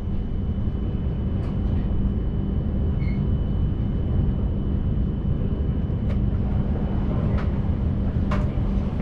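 Steady low rumble of a Hayabusa Shinkansen train running at speed, heard inside the passenger cabin, with a faint constant high whine. A few brief ticks sound through it.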